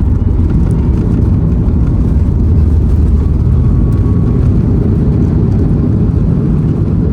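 Steady, loud low rumble of a Boeing 737 MAX 8's engines and airflow heard from inside the passenger cabin.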